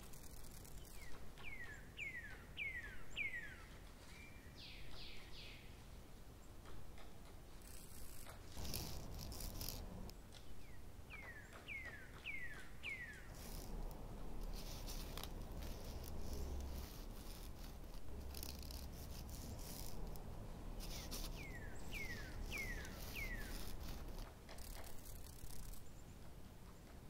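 A bird calling: groups of four quick falling chirps that come back about every ten seconds, over soft hiss and a low rumble.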